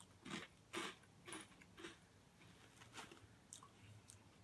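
Faint crunching of Calbee shrimp chips being bitten and chewed: four crunches about half a second apart in the first two seconds, then quieter chewing.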